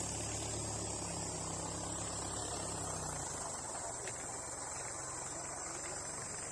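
Insects chirring steadily at a high pitch, over the low hum of an idling engine that cuts off about three seconds in.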